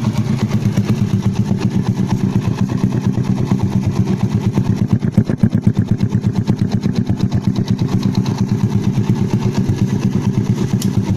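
Yamaha Jupiter Z single-cylinder four-stroke engine idling through an RCB Purba aftermarket racing exhaust, a steady run of even, deep exhaust pulses, described as mellow and full bass. The throttle is blipped briefly about five seconds in.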